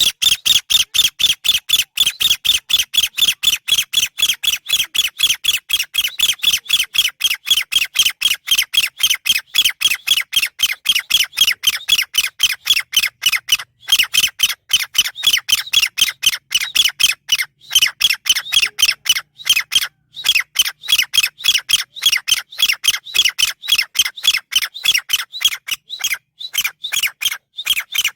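Chinese francolin calling: a loud, fast, unbroken run of short harsh notes, about four a second, with a few brief breaks.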